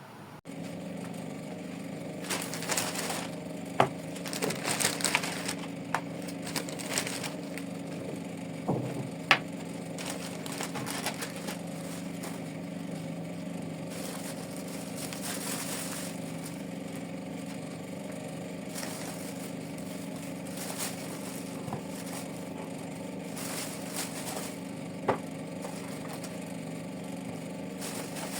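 Rustling, scraping and sharp clicks of things being handled, over a steady low hum.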